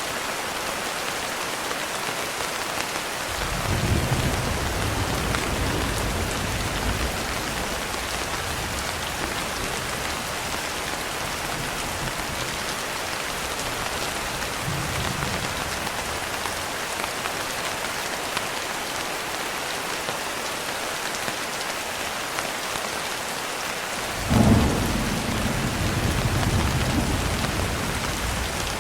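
Steady rain falling, with rolls of thunder over it: a low rumble a few seconds in lasting about four seconds, and a louder one that breaks suddenly near the end and rolls for about three seconds.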